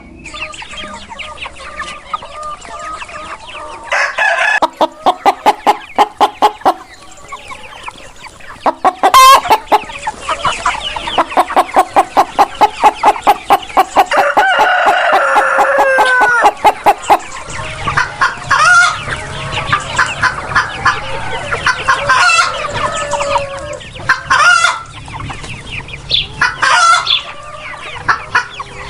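Chickens clucking in loud rapid runs of about five calls a second, with a rooster crowing about halfway through. Shorter bouts of clucking follow.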